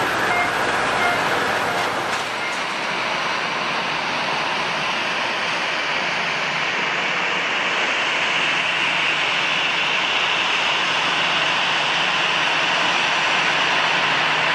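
Jet airliner engines: a steady rushing noise over a low hum, growing slightly louder toward the end.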